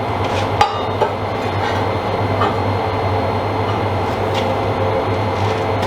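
Steady machine noise from metalworking on steel parts, a low hum with crackling and a few sharp clicks, stopping abruptly near the end.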